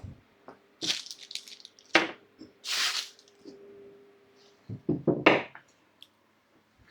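Metal parts and bolts of a hydraulic scissor motorcycle lift being handled and fitted by hand: a few irregular knocks and clinks, with a brief scraping rustle about three seconds in.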